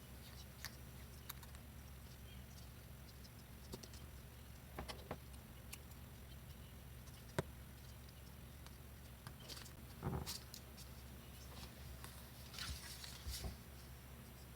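Paper and craft tools being handled: scattered light clicks, taps and brief paper rustles, with one sharp click about seven seconds in and a short rustle around ten seconds.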